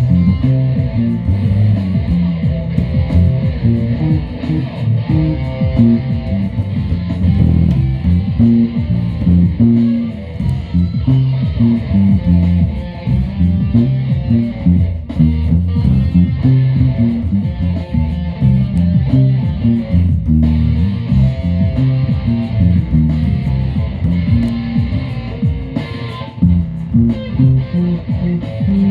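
Guitar music: electric guitar over a bass line, playing continuously.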